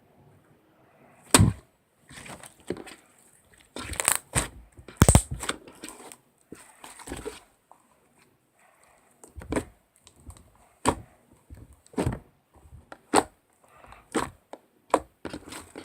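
A series of irregular sharp knocks and clicks, about fifteen of them, the loudest about a second and a half in and again around four to five seconds in.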